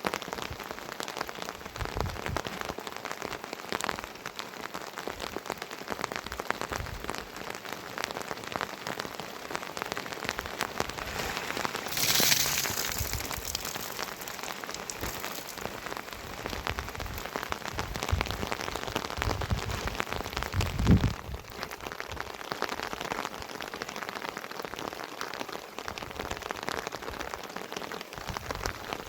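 Heavy rain falling and pattering on surfaces, a dense steady hiss full of individual drop hits. A louder hissing surge comes about twelve seconds in, and a short low thump about twenty-one seconds in.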